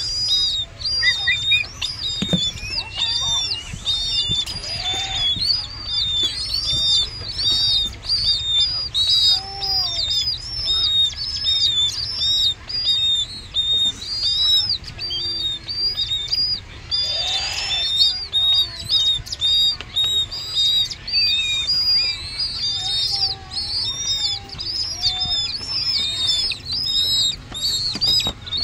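Nestling bird calling without a break as it is hand-fed: rapid, high, arching chirps, several a second, typical food-begging calls.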